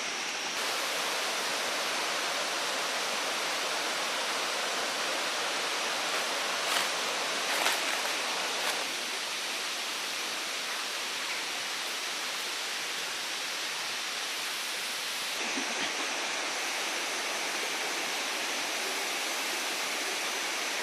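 Waterfall: a steady rush of falling water, with a few brief louder spikes around the middle. Its tone changes abruptly twice, about half a second in and about fifteen seconds in.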